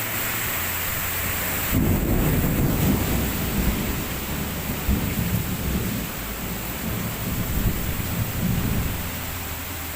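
Heavy rain pouring in a strong windstorm, with a deep, uneven rumble that swells about two seconds in and dies down near the end.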